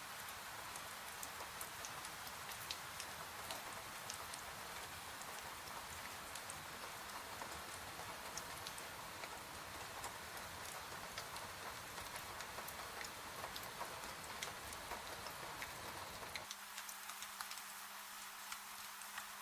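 Steady rain hiss mixed with a wood fire crackling, many small sharp snaps scattered throughout. About sixteen seconds in the low rumble drops out, leaving a faint steady hum under the rain and crackle.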